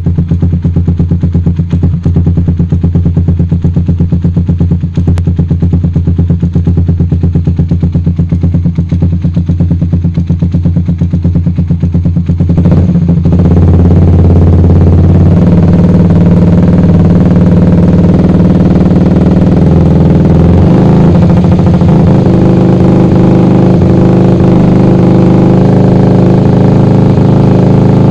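Suzuki Satria FU 150 single-cylinder four-stroke engine running through an aftermarket racing exhaust, idling with a rapid, even popping beat. About thirteen seconds in it is revved up suddenly and held at higher revs, the pitch stepping up and down.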